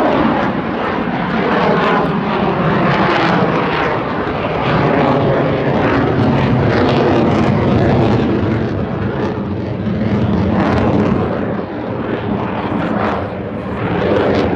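Loud jet noise of low-flying fighter jets, likely the Thunderbirds' F-16 Fighting Falcons, passing over, with a falling pitch in the first few seconds.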